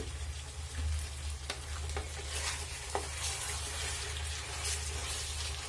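Chicken, onion and tomatoes sizzling in a pot as a wooden spoon stirs them, with a few short clicks, over a steady low hum.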